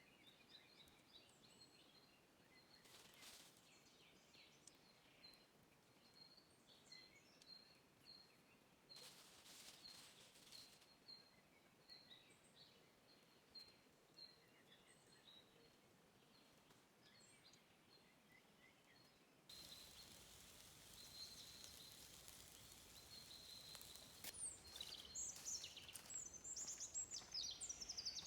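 Faint birdsong of short chirps and twitters over a quiet outdoor background. About two-thirds of the way through, the background steps up and the chirping grows louder, with quick falling notes near the end.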